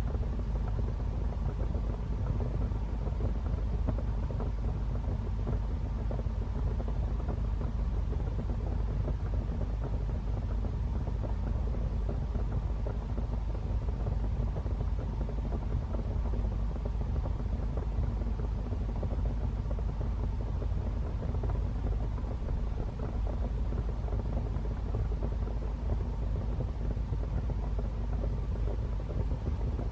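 Wood fire burning steadily in a fireplace: a low, even rumble with a dense, fine crackle over it.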